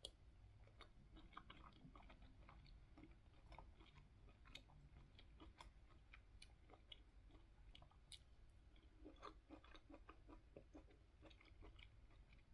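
Faint, close chewing of soft, juicy mango chunks, with small wet mouth clicks scattered throughout.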